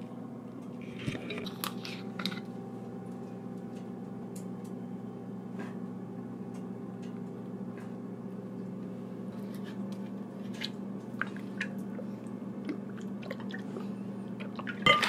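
A person chewing salad, with scattered small crunches over a steady low hum.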